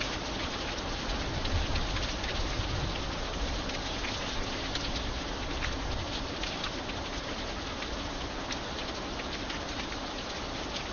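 Steady light rain falling, with separate drop hits standing out over an even hiss, and a low rumble that eases over the first few seconds.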